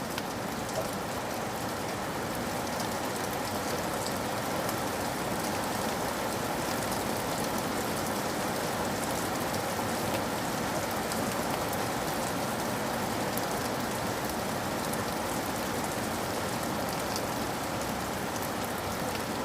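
Steady rain falling on a surface, an even patter with many fine drop ticks.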